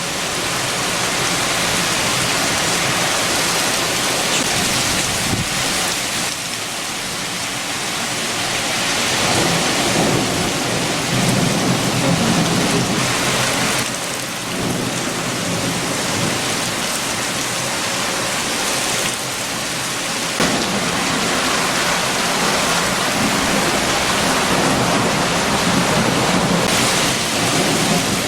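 Steady heavy rain with strong wind, swelling twice into a deeper, lower surge: about a third of the way in and again through the last third.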